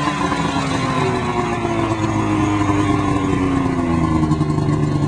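Polaris RMK 600 two-stroke twin snowmobile engine revving, its pitch falling steadily as the revs come down. Near the end it settles into a lower, steady, pulsing run.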